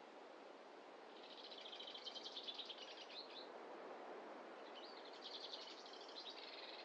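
A songbird singing two rapid, high trills, the first about a second in and the second about five seconds in, over a faint steady background rush.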